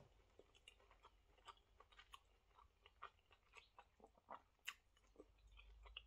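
Faint chewing of a mouthful of well-done steak, with small wet mouth clicks and smacks at irregular intervals.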